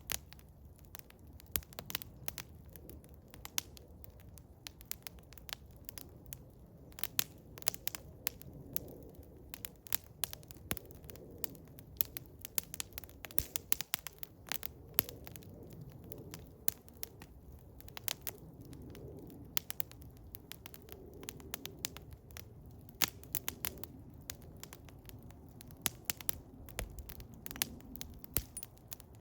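Eastern hemlock wood fire crackling, with frequent, irregular sharp pops over a faint, steady low rush.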